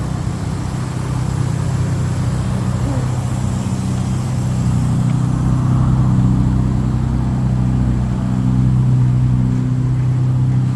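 A 1991 Chevy Suburban's 454 big-block V8 idling after a cold start, a steady low drone that swells slightly a few times.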